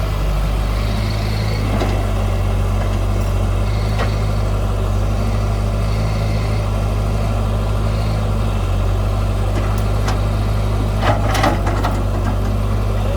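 Heavy diesel engine of earthmoving machinery running steadily with a low, even drone, and a few sharp knocks or clanks about eleven seconds in.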